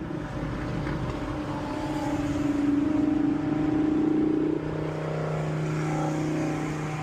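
Car engine running, pulling harder and louder for a couple of seconds in the middle, then easing off to a steady drone.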